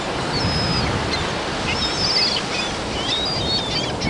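Seagulls calling: thin, high, gliding cries several times over a steady rushing background noise.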